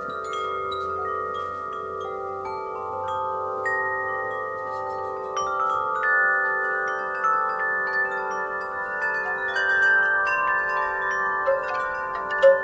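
Wind chimes ringing in a breeze: metal tubes struck at irregular moments, their tones overlapping and ringing on long after each strike, with the strikes coming more often in the second half.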